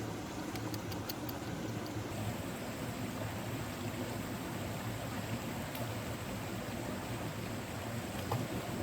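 Valley stream flowing: a steady, even rush of water, with a few faint ticks about half a second to a second in.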